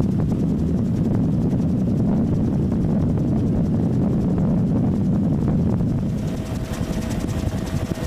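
Helicopters flying past with a steady low rotor thudding. About six seconds in, a steady higher tone joins and the sound turns brighter.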